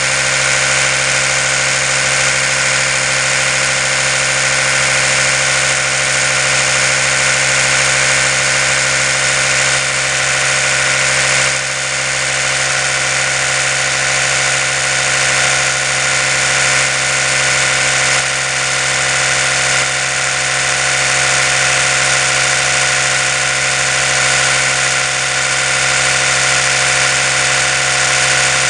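Oral-B electric toothbrush running steadily, a continuous high buzzing hum with a slight dip about eleven seconds in.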